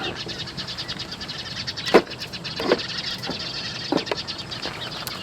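Wood campfire crackling: a dense run of fine crackles with a few louder pops and snaps, the loudest about two seconds in.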